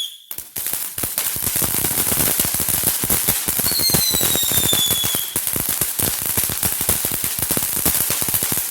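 A long string of small firecrackers going off in a dense, rapid crackle of bangs, starting about half a second in and running on without a break. A falling whistle sounds briefly through the popping in the middle.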